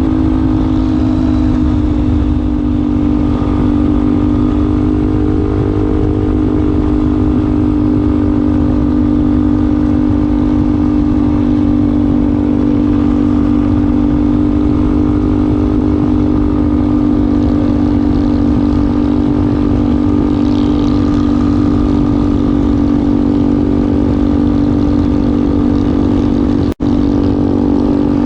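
Yamaha Ténéré 250 single-cylinder four-stroke engine running at steady, unchanging revs through an aftermarket Wacs muffler tip. Near the end the sound drops out for a split second.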